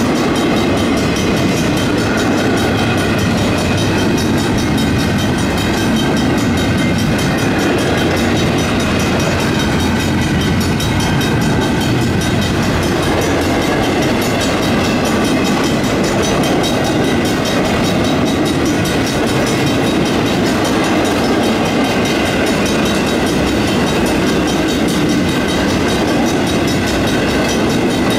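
Union Pacific double-stack intermodal freight cars rolling steadily past a grade crossing, with the crossing's Griswold mechanical bells ringing in a fast, even beat throughout.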